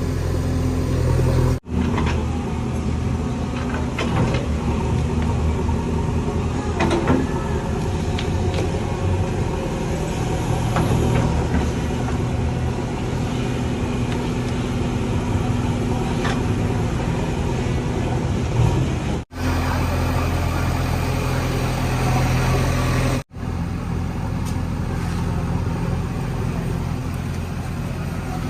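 A JCB 3DX backhoe loader's diesel engine runs steadily under digging work, with a few faint knocks. The sound breaks off for an instant about a second and a half in, and again twice near the end.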